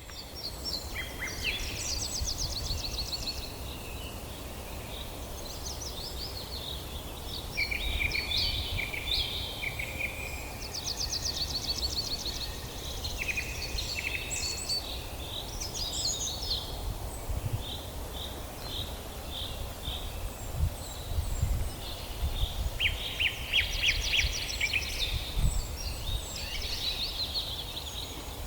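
Several songbirds singing together in a forest dawn chorus: overlapping trills, rapid runs of chirps and short whistled notes, over a low, uneven rumble.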